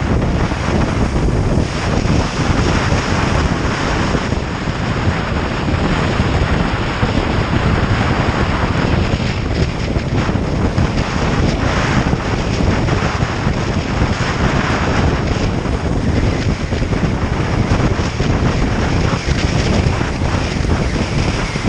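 Heavy wind rushing over the microphone of a motorcycle riding at road speed, a loud, steady roar with the bike's running noise buried beneath it.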